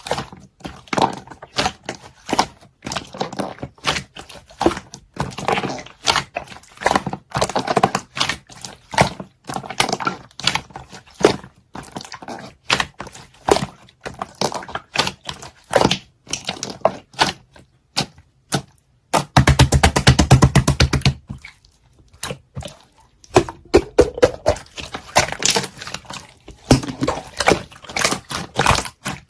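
Clear jelly-textured slime being squeezed and pressed by hand, giving irregular wet clicks and pops. About nineteen seconds in comes a fast, dense run of louder pops lasting about two seconds.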